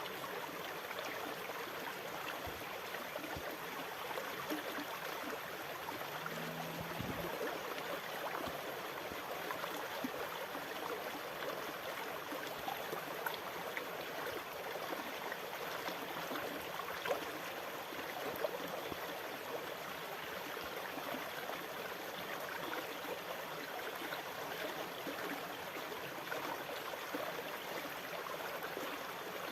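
Sea water washing steadily, an even, unbroken rush with small splashy peaks here and there.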